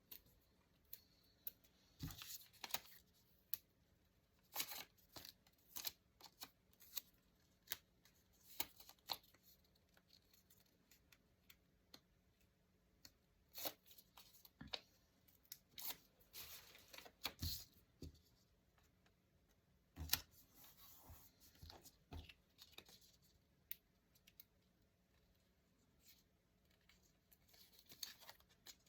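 Paper being worked by hand for a journal page: irregular short, crisp tears and crackles, with quiet pauses between them.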